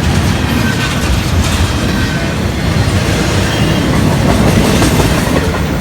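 Train rolling past: a steady rumble of the moving cars, with wheels clicking over the rail joints.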